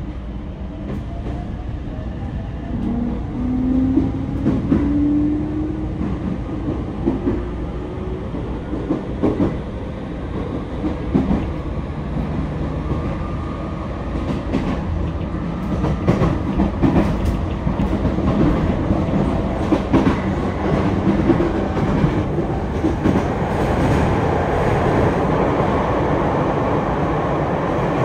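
Sotetsu 10000 series commuter train heard from inside the car while running. Its Mitsubishi IGBT-VVVF inverter and traction motors give a whine that rises in pitch over the first several seconds as the train picks up speed. Under it run steady wheel rumble and rail-joint clicks.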